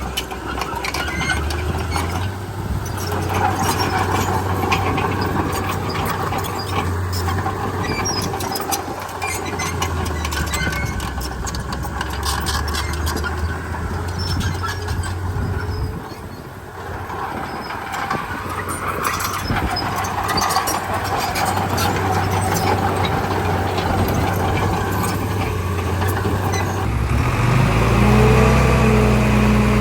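Komatsu D31P crawler bulldozer's diesel engine working, its pitch and load shifting, with frequent knocks and rattles. Near the end the sound changes abruptly to a steadier, evenly pitched engine hum.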